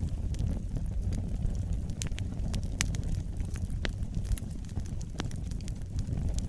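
Wood fire burning with a low rumble and scattered sharp crackles and pops, a dozen or so in a few seconds.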